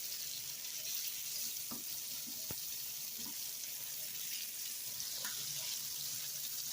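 Breaded shrimp deep-frying in hot oil: a steady sizzle with a few faint pops and ticks.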